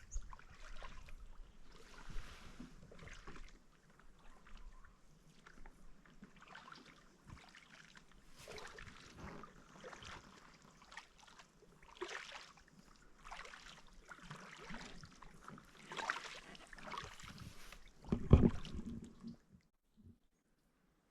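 Paddle strokes splashing in the water as a small paddled boat moves along, a stroke every second or two, with a loud knock about 18 seconds in. The sound cuts off suddenly shortly after.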